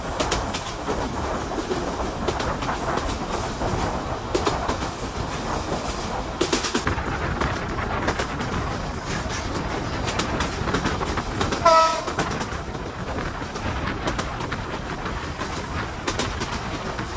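Korotoa Express passenger train running along the track, heard on board: a steady rumble with wheels clacking over rail joints. One short horn blast sounds about twelve seconds in.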